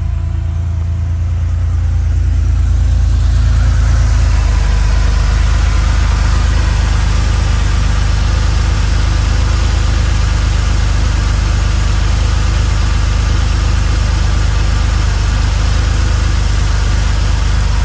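1986 Porsche 911's air-cooled flat-six running steadily while warming up after a cold start. It grows louder and brighter over the first few seconds, then holds steady.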